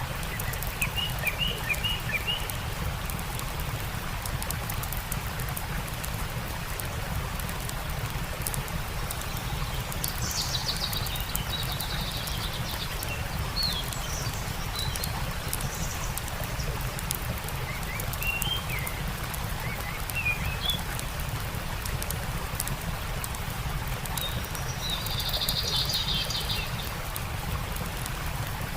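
Small birds chirping in scattered short calls, with a rapid trill near the end, over the steady rush of a stream. Faint crackles from a campfire run underneath.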